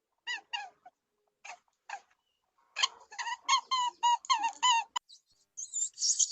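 A small animal giving rapid bursts of short, high-pitched calls, each sliding down in pitch. Near the end they give way to shrill bird chirping.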